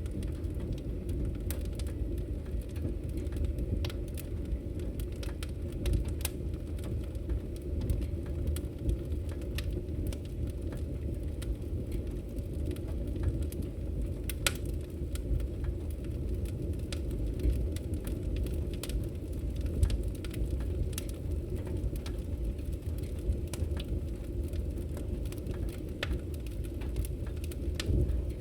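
Wood fire in a fireplace crackling: frequent sharp, irregular pops and snaps over a steady low rumble of the flames.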